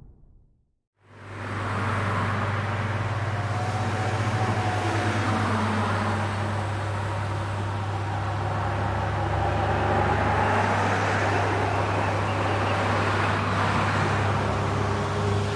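A vehicle engine running steadily with a constant low hum, amid traffic noise, starting about a second in.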